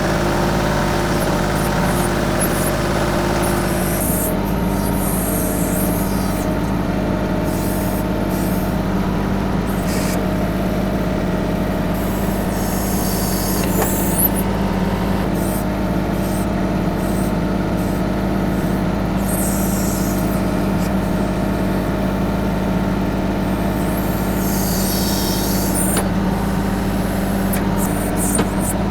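TYM 2515H compact tractor's three-cylinder diesel running steadily under load, powering the BH150 backhoe as it digs. High hissing squeals come in several times, a few seconds apart, over the steady engine.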